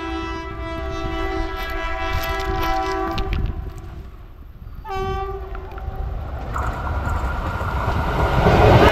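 An approaching train sounds its multi-tone horn in a long blast, then a shorter blast about five seconds in, over the low rumble of the train coming closer. Near the end the rumble swells into a loud rush of wheels and train noise as the train reaches the rail beside the microphone.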